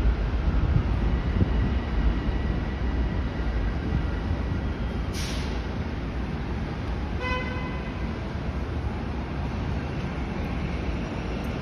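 Steady rain noise with low wind rumble on the microphone. A short hiss comes about five seconds in, and a brief vehicle horn toot about seven seconds in.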